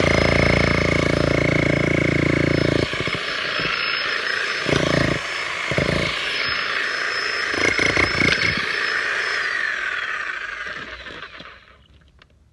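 Bosch GSH 11 VC SDS-max electric demolition hammer (breaker) chiselling into a concrete foundation. It hammers loud and steady for about three seconds, then gives lighter, broken bursts of blows. Its motor whine falls away near the end as it is switched off.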